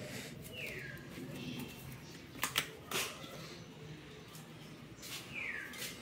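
A bird calls twice, each a short whistle falling in pitch, about four and a half seconds apart. Between the calls, near the middle, come three sharp knocks.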